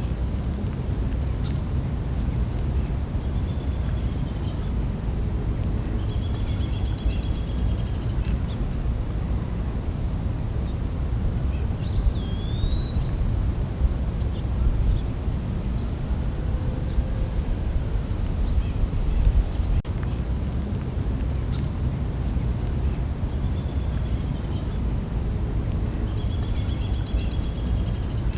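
Night forest ambience: a continuous high-pitched insect drone, with crickets chirping in quick, evenly spaced trains. A few whistled bird calls come now and then, and a steady low rumble runs underneath.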